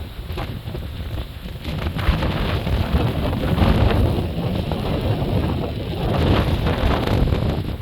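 Strong snowstorm wind buffeting the microphone with a rumbling, gusty rush. It swells into a stronger gust about two seconds in and eases off near the end.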